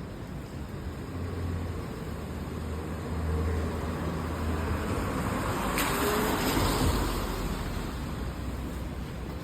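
A motor vehicle passing on a rain-wet street: a low engine hum, then tyre hiss on the wet road that swells about six seconds in and fades away.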